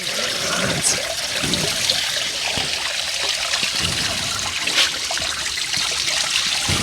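Spring water trickling and splashing steadily, close to the microphone.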